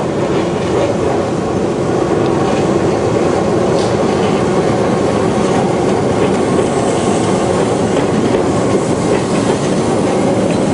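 Keihan Ishiyama-Sakamoto Line electric train passing close by: a steady, loud rumble of wheels and running gear on the rails, with a few faint clicks as the wheels cross rail joints.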